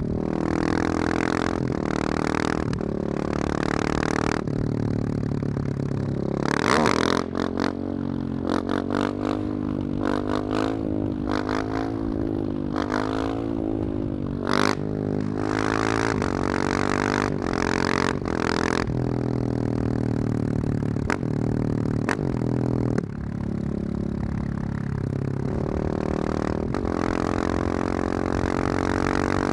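Husqvarna 701's single-cylinder engine through a loud Wings aftermarket exhaust, revving up and down with its pitch repeatedly rising and falling, and a few sharp cracks in the middle.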